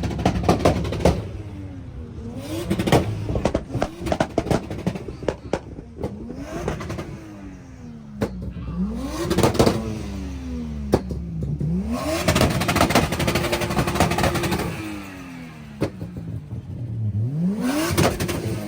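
Nissan Skyline R34's turbocharged straight-six accelerating through the gears: the engine note climbs, drops sharply at each shift and climbs again several times, holding steady for a couple of seconds about two-thirds of the way through. Sharp exhaust crackles and pops run between the pulls.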